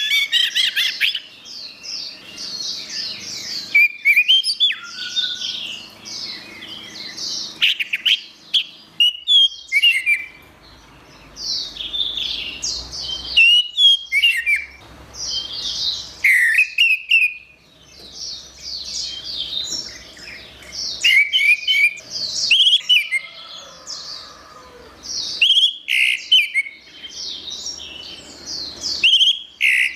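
Orange-headed thrush (anis merah) singing a long, varied song of fast chirps, trills and whistled phrases, broken by brief pauses every few seconds.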